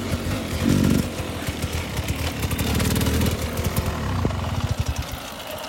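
Dirt bike engine running, with a short rev about a second in; near the end its firing slows and fades.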